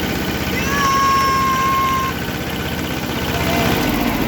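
Diesel tractor engine running steadily with an even pulse. About a second in, a long high-pitched tone is held for over a second, with a shorter one near the end.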